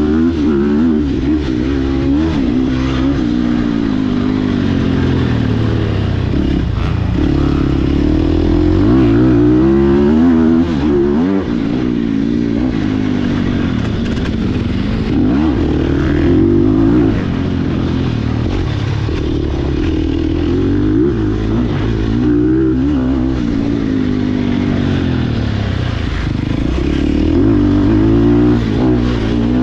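Sherco SEF300 four-stroke single-cylinder enduro motorcycle being ridden hard. The engine revs up and drops off again and again as the rider opens and closes the throttle and shifts.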